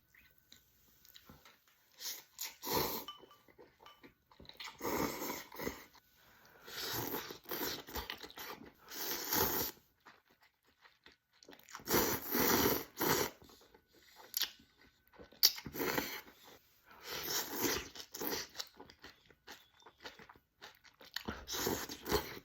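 Close-miked eating sounds: mouthfuls of tom yum instant noodles with vegetables being bitten and chewed, in irregular bursts with short pauses between them.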